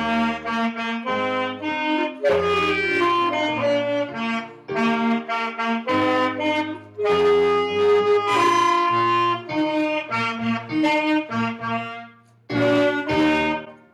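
Beginner clarinet and saxophone players playing a short band-method piece together, in quick quarter- and eighth-note figures. Near the end they pause briefly, sound one final held chord and stop.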